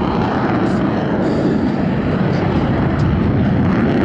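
F/A-18 Super Hornet jet engines running loud and steady as the jets pass.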